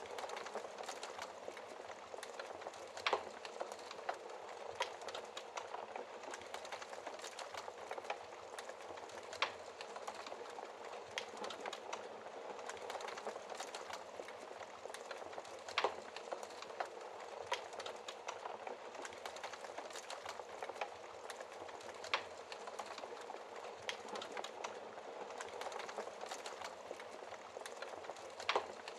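Wood fire burning in a fireplace: a steady hiss thick with small crackles, and a sharp, louder pop about every six seconds.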